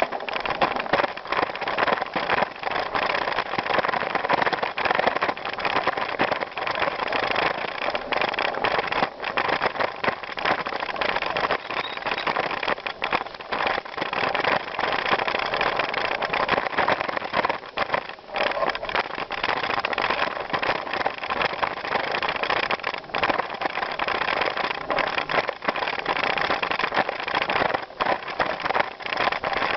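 Bicycle riding over a gravel trail: a steady rushing noise of tyres on gravel, with frequent small clicks and rattles from the bike.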